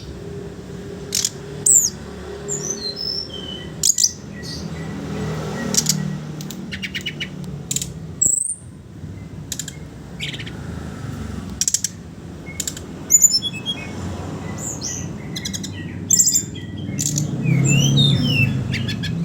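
Brown-chested jungle flycatcher (SRDC) calling: short bursts of rapid chattering clicks mixed with quick, high whistled notes that slur downward, coming irregularly throughout. A low background rumble runs underneath and swells twice.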